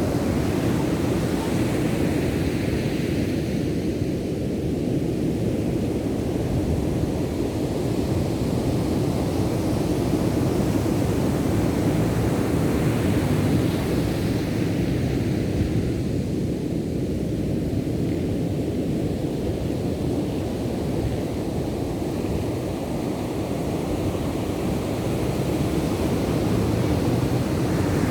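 Ocean surf: a deep, steady rumble of waves that slowly swells and eases, louder and brighter about two seconds in and again around thirteen seconds.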